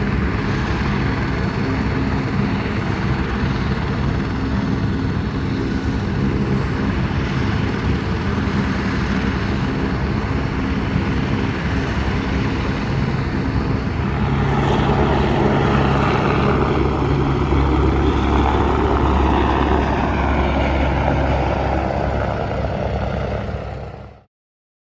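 An engine runs steadily with a low hum. It grows louder about fourteen seconds in, then cuts off abruptly near the end.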